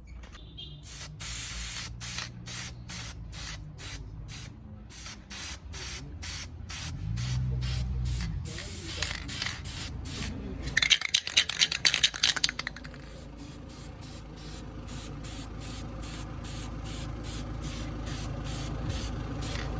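Aerosol can of high-heat spray paint sprayed in short, even bursts, about two a second, with a denser, louder run of bursts about eleven seconds in.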